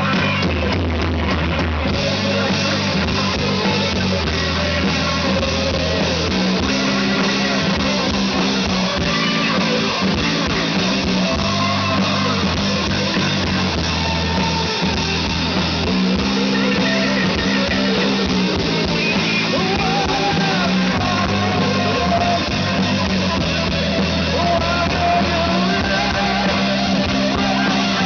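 Rock band playing loud and bass-heavy, with a drum kit, guitars and singing.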